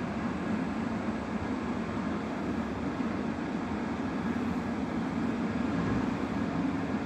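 Steady rushing rumble of an N700A Shinkansen train running at speed.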